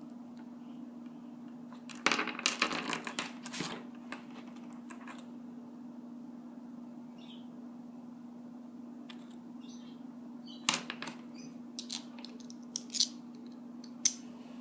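Small beads and shells clicking and clattering against one another as they are handled and threaded onto a cord: a burst of rattling about two seconds in, then scattered single clicks near the end, over a steady low hum.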